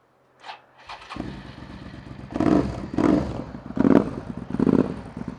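Suzuki SV650S V-twin engine firing up about a second in and then blipped a few times, rising and falling, through a Delkevic 200 mm stubby exhaust. It sounds very deep. The engine is cold and not yet warmed up.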